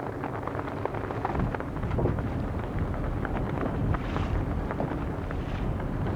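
Wind rumbling on the microphone with water splashing and crackling against the hull of a moving boat.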